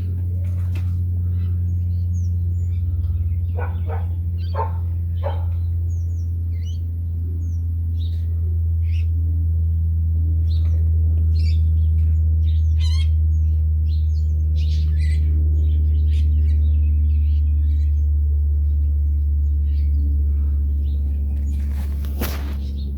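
Birds chirping and twittering in short, scattered calls over a loud, steady low hum.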